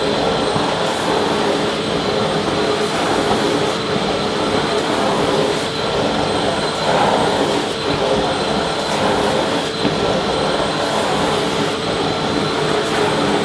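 Vacuum cleaner running steadily: an even rush of air with a steady motor whine, unchanging throughout.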